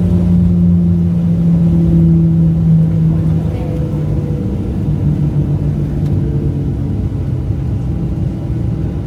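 Cabin noise of a Boeing 737-700 after landing: its CFM56 jet engines running steadily with a low hum, the pitch dropping slightly about three and a half seconds in.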